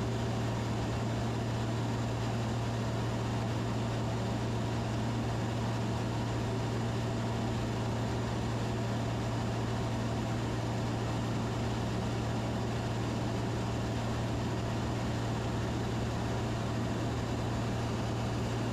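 Steady cockpit drone of a Van's RV-10 light aircraft in flight: the piston engine and propeller make an even low hum under a constant rushing noise, with no change in power.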